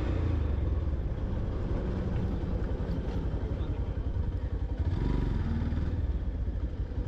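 Yamaha FZ-X's single-cylinder engine running as the motorcycle is ridden at low speed.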